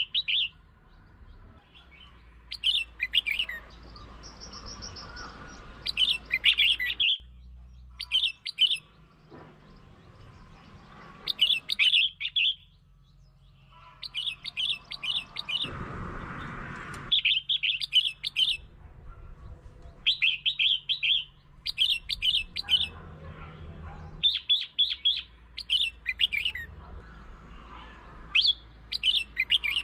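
Red-whiskered bulbul singing: about a dozen short, bright, bubbly phrases, each under a second, spaced one to three seconds apart.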